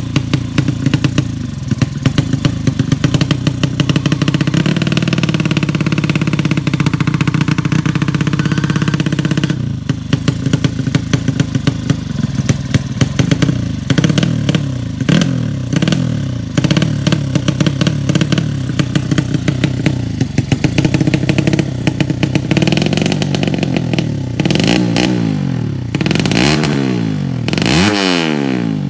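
200cc drag-racing motorcycle engine revved again and again, the pitch rising and falling with each blip of the throttle. The blips come quicker and sharper in the last few seconds.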